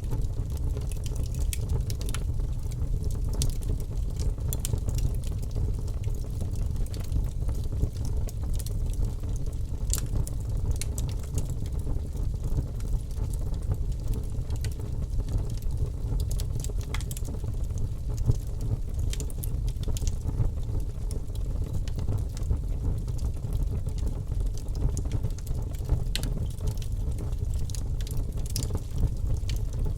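Campfire burning: a steady low rumble under scattered, irregular sharp crackles and pops from the burning wood.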